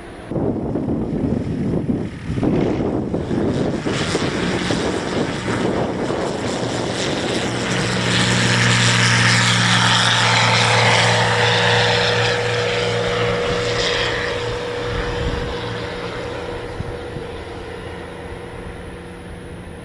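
Light kit aircraft powered by a 130 hp Viking engine on its takeoff run: the engine and propeller drone builds, is loudest about eight to twelve seconds in, then fades as the plane climbs away.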